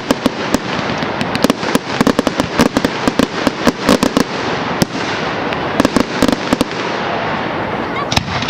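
Firework display: a rapid volley of sharp bangs and crackles over a continuous rushing noise, thinning to fewer, scattered bangs in the second half.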